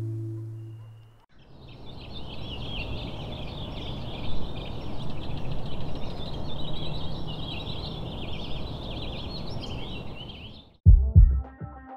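Birds chirping and singing over a steady rush of outdoor background noise. It follows the fading end of a strummed acoustic guitar, and a beat of music cuts in near the end.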